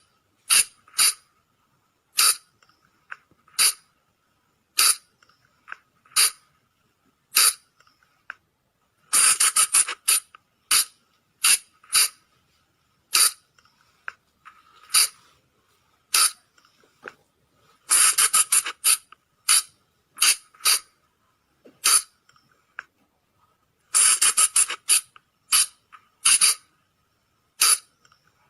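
Sunda flying lemur (colugo) giving short, sharp, shrill calls, mostly single calls about a second apart, with runs of several quick calls in a row about 9, 18 and 24 seconds in.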